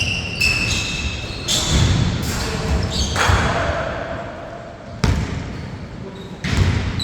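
Basketball bouncing on a hard court during a game: repeated thuds and sharp strikes, with short high sneaker squeaks in the first second or two.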